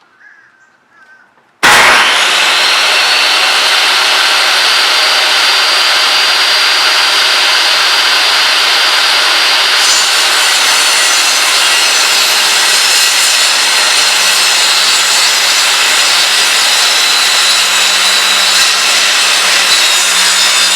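An electric power saw starts about two seconds in, its whine rising as the motor comes up to speed, then runs loud and steady.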